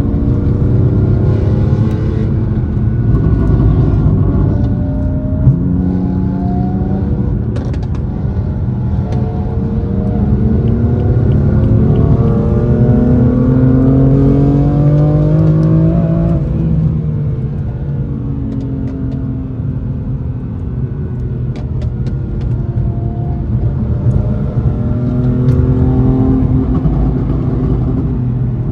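Car engine running under way, its pitch rising and falling as it speeds up and eases off. The longest climb peaks about sixteen seconds in and then drops suddenly, as at an upshift.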